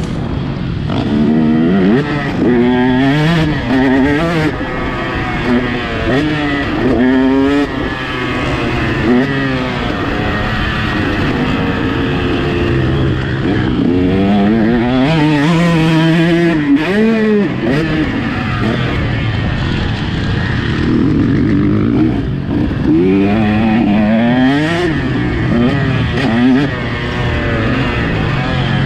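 Motocross bike engine under hard riding, revving up in repeated rising sweeps and dropping back at each gear change or roll-off of the throttle.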